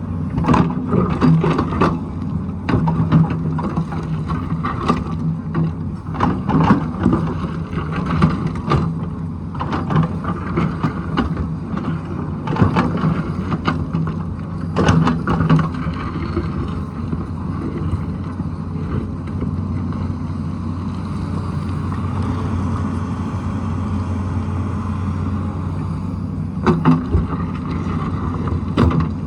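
Diesel engine of a Tata Hitachi excavator running steadily under work, with repeated knocks and clatter of rock and bucket through the first half and again near the end. In between is a steadier stretch of engine running alone.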